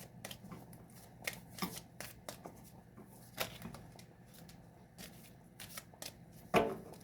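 A deck of tarot cards being shuffled by hand: irregular soft riffles and card snaps, with a faint steady hum underneath.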